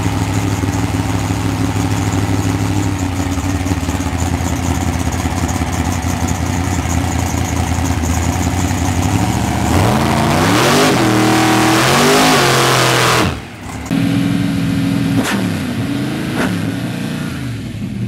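Hot rod engine heard from inside the car, idling steadily, then revving up and down several times as the car pulls away. The sound breaks off for a moment, then the engine runs on with two sharp knocks.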